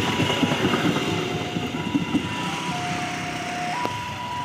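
Train rumbling along the rails, with irregular knocks, fading gradually. A steady electronic warning tone sounds over it and, in the second half, turns into a high-low two-tone signal alternating about once a second.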